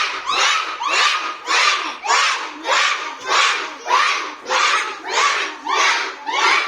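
A group of children quacking in imitation of a duck: a steady, evenly spaced series of loud quacks, about two a second.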